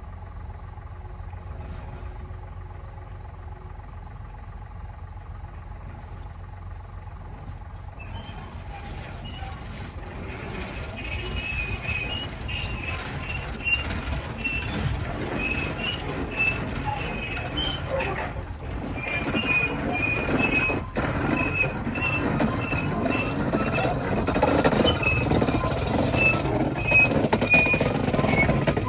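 Narrow-gauge steam train hauled by the Andrew Barclay locomotive Granton No. 9, running past and growing louder from about eight seconds in. Its wheels squeal repeatedly and click over the rail joints.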